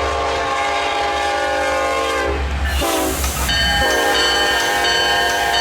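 Diesel locomotive's multi-chime air horn sounding a long blast, a short blast about three seconds in, then another long blast, over a low rumble.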